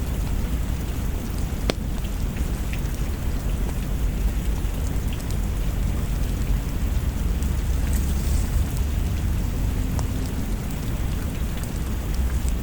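Steady rain with a deep low rumble underneath and a few sharp ticks scattered through it.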